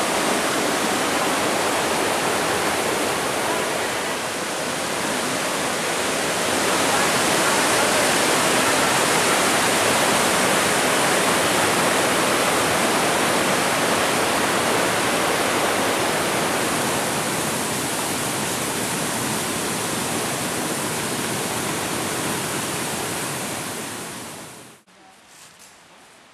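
Loud, steady rush of fast-flowing water cascading over rocks, which cuts off abruptly near the end.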